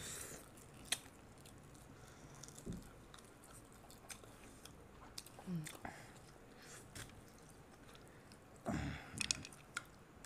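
Faint chewing and mouth sounds of people eating mutton curry with their hands, with scattered small clicks and smacks. A brief louder burst of noise comes near the end.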